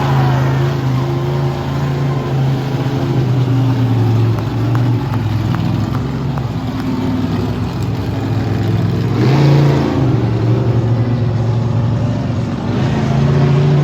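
Monster truck engine running loud and revving up and easing off several times, with a sharp burst of revs near the middle and climbing again near the end.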